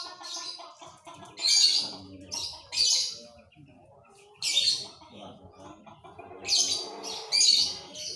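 Pied (panda) canary chirping in short, loud, high-pitched bursts, about eight in all, some close together in pairs and some a second or more apart, over a fainter, lower background of other sounds.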